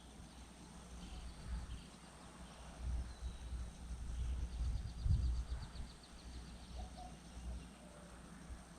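Faint songbird calls outdoors, including a rapid high trill about halfway through, over a low, uneven rumble.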